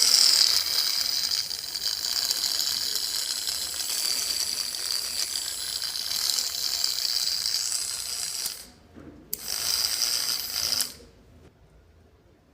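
Small electric motor running with a high buzz. It stops about nine seconds in, starts again for about a second and a half, then cuts off.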